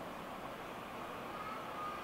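Faint, steady rumble of the TRAIN SUITE Shiki-shima approaching from a distance, with a brief thin high tone about one and a half seconds in.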